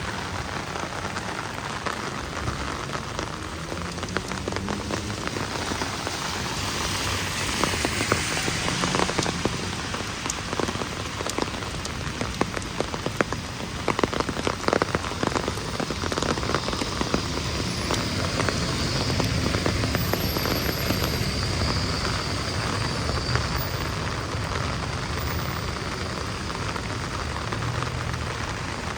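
Heavy rain falling on the street, a steady hiss with many sharp drop impacts, which are thickest in the middle stretch.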